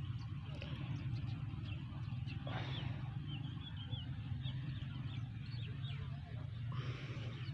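Outdoor ambience of birds chirping, many short high calls scattered through, over a steady low hum.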